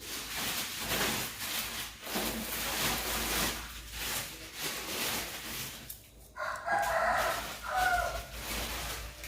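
A bird calling twice in pitched, drawn-out calls about six seconds in, the second one shorter, over a rough rustling noise.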